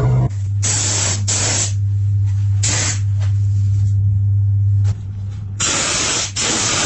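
About five short spray bursts, a hissing jet switched on and off, with a steady low hum underneath that stops about five seconds in.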